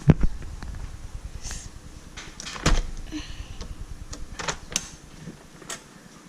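A window being opened: a sharp click near the start and a louder knock about two and a half seconds in, with scattered smaller clicks and a low rumble of handling.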